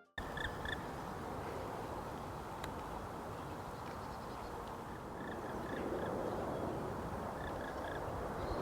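A bird calling in short groups of two or three clipped notes, three groups spaced a few seconds apart, over a steady rush of outdoor background noise.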